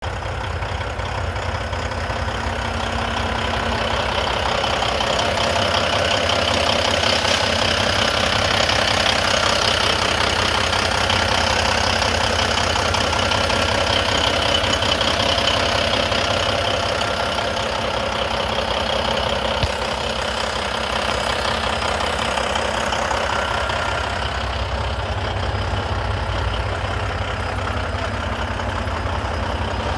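Diesel engine of a 2016 Volvo VNL semi-tractor idling steadily, with a single sharp click about twenty seconds in.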